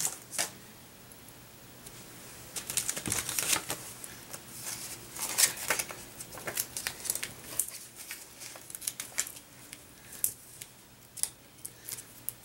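Irregular crinkling and small sharp clicks of foam adhesive dimensionals being peeled from their backing sheet and handled with paper card pieces.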